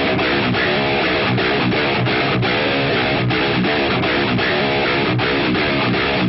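Music: a guitar playing on its own in a steady, even rhythm of strummed notes.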